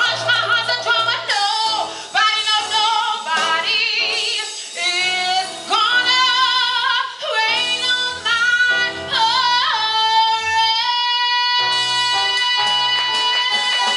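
A woman's solo voice singing a show tune, with sliding, ornamented phrases and vibrato. It settles into long, steady held notes from about two-thirds of the way through.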